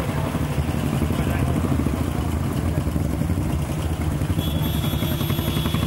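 Royal Enfield Bullet single-cylinder motorcycle engine running steadily, with a fast, even firing pulse. A faint high steady whine joins about four and a half seconds in.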